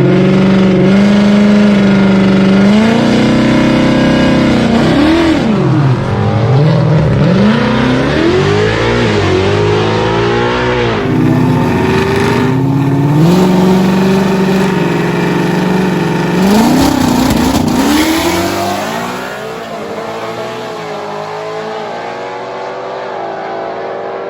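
Drag-racing street car engines, loud and revving, holding steady revs for a few seconds at a time between repeated rises and falls in pitch. The engine sound drops in level about three-quarters of the way through.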